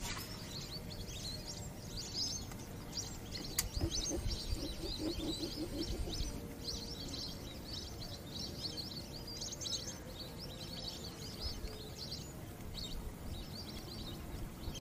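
Many small birds chirping continuously in quick short notes over a steady low rumble, with one sharp click about four seconds in.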